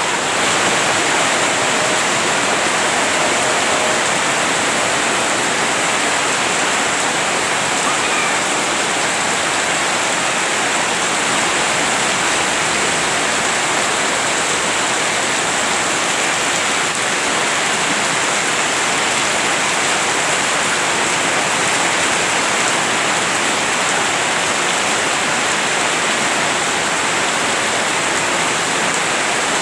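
Heavy rain pouring down in a steady, unbroken hiss of water.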